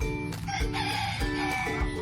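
A rooster crowing once, a harsh call of about a second and a half, over background music with a steady beat.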